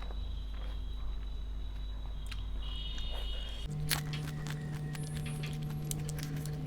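Close-miked eating of golgappa: a steady hum at first, then about four seconds in a sharp crack followed by a run of quick clicks and crunches from chewing the crisp puri.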